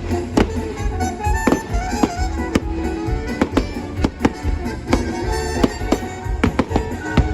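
Fireworks going off over the show's music soundtrack: about a dozen sharp bangs at uneven intervals, layered over sustained melodic music.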